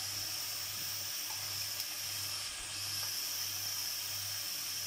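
Shredded cabbage with tomatoes and onions sizzling steadily in oil in a frying pan.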